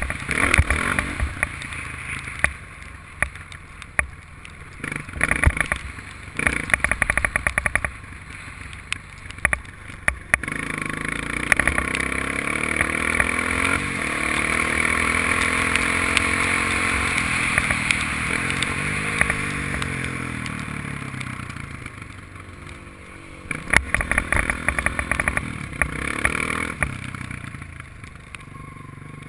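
Honda dirt bike engine recorded by a GoPro riding on the bike. The first ten seconds or so are rattling and knocks over the engine; then the engine runs steadily for about ten seconds, its pitch rising and falling as the revs change; more rattling comes near the end.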